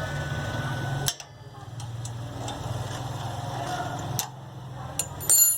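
Ratchet wrench clicking rapidly as bolts on a small generator engine's cover are undone, with a pause about a second in. A short metallic clink near the end.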